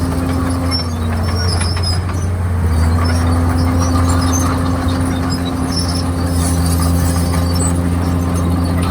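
Komatsu D51PX bulldozer's diesel engine running steadily under load, its pitch sagging about a second in and recovering about three seconds in, with light scattered clinks over the engine.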